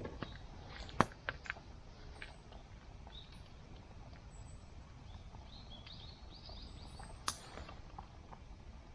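Low, steady outdoor background noise broken by a few sharp clicks or knocks, the loudest about a second in and another near seven seconds in. Faint, short high chirps come in the middle.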